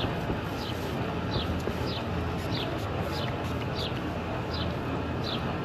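A small bird chirping over and over, short high notes that fall in pitch, about two a second, over a steady low background rumble.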